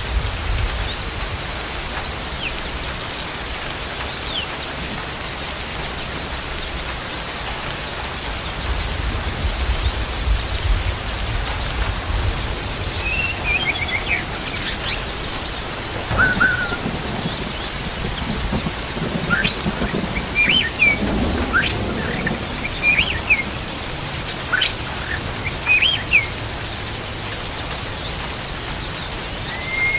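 Songbirds giving short chirps and whistled notes, scattered and more frequent after about twelve seconds in, over a steady hiss of rain with a low rumble in the first half.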